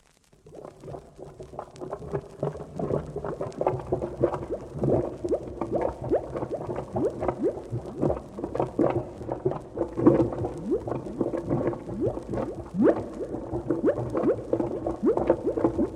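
Sound effect of thick liquid bubbling and gurgling over a low steady drone, starting suddenly after a silent gap.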